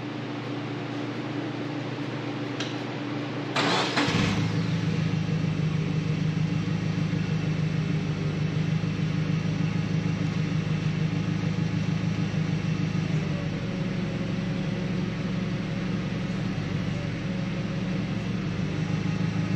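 A combustion engine cranks and starts about four seconds in, then runs on at a steady idle.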